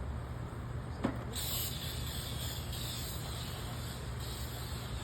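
Aerosol wasp spray hissing in spurts, starting just after a short click about a second in, over a steady low rumble.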